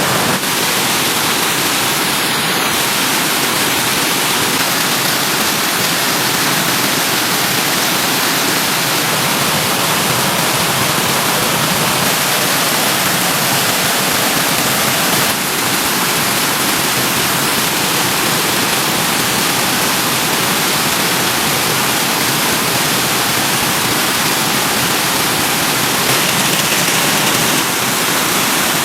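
Stream water rushing over its bed, a steady, even hiss with no pauses.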